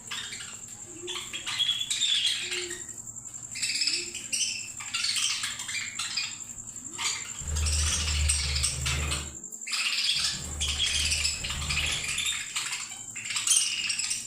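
A group of small Australian parrots chirping and chattering continuously in quick, high calls. Twice past the middle, a low rumble runs under the chirping for about two seconds each time.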